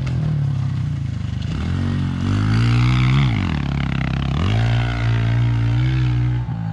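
Four-stroke single-cylinder pit bike engine being ridden: the revs climb for a couple of seconds, drop sharply about halfway through, then pick up again and hold steady.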